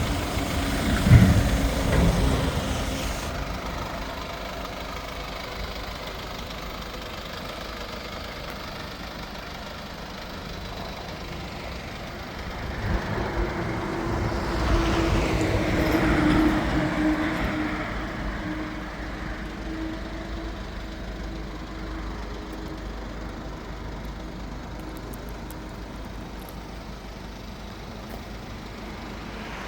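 Motor vehicle engine noise with a steady low rumble. A louder low thud comes about a second in, and the noise swells and fades again about halfway through.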